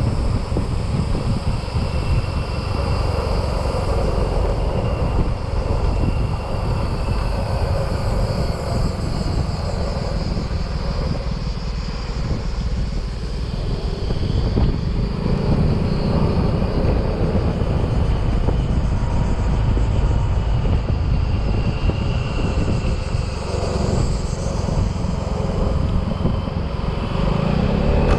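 Yamaha XMAX scooter engine running steadily while riding on the road, mixed with wind and road noise.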